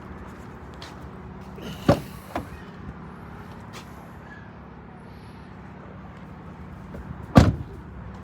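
Two slams of the 2013 Ford F-150 pickup being shut, about five and a half seconds apart, the second one louder, over a steady low hum.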